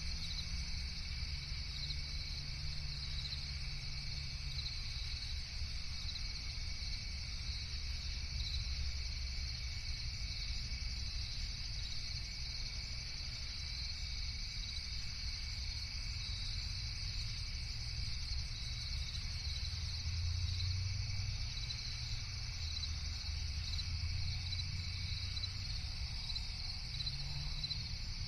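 Crickets chirping steadily in a dense chorus, over a steady low rumble.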